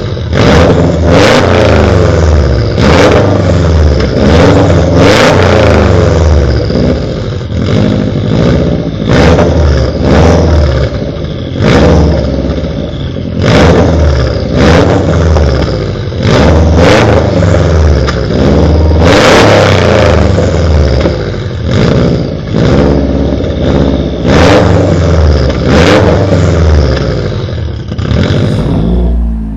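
A car engine revved again and again through a loud exhaust: a series of quick, sharp revs, roughly one or two a second, each dropping back between.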